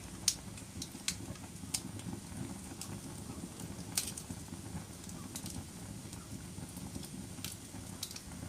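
Wood fire burning in a fireplace: a steady low rumble of the flames with sharp pops and crackles every second or so, the loudest about a third of a second in and again around four seconds.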